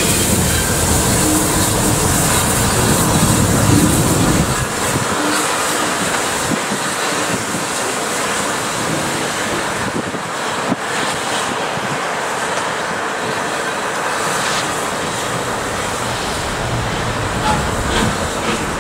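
A train running on the track, with a heavy low rumble for about the first four seconds that then drops away. Lighter rolling noise follows, with a steady high hiss and a few scattered clicks.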